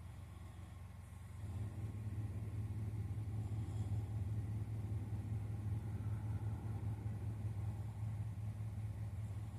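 Low, steady engine rumble of a motor vehicle, growing louder about a second and a half in and then holding.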